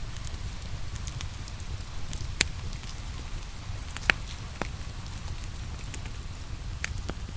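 Wood fire crackling in a fireplace, with a handful of sharp, separate pops (the loudest about two and a half and four seconds in), over a steady hiss of rain and a low rumble.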